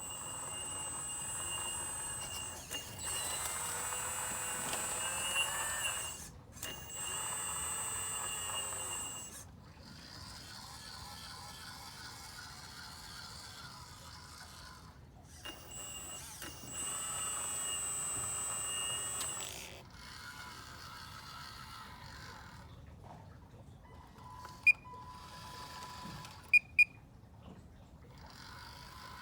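The hydraulic pump of a radio-controlled Cat 330D excavator model, whining in stretches of a few seconds as the controls are worked, its pitch shifting slightly under load. Three short sharp beeps come near the end.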